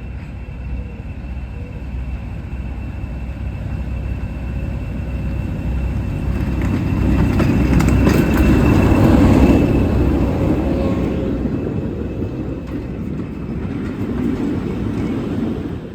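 Heritage railway train running into the station along the platform, a heavy rumble of wheels on rails that grows louder to a peak about halfway through, then eases.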